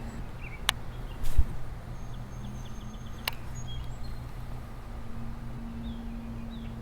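Outdoor ambience: small birds chirping with short high notes and a brief trill, over a steady low hum. A low thump about a second in and two sharp clicks.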